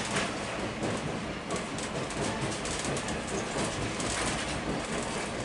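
Excursion train rolling along the track: a steady rumble of wheels on rail with many small clicks and clatters.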